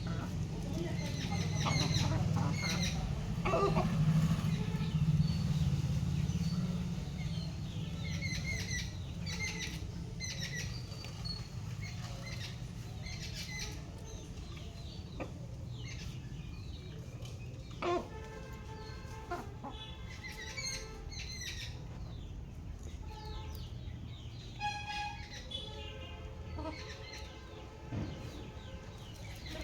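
Chickens calling: many short high peeps and chirps, with lower clucking calls now and then. A low rumble runs under the first several seconds.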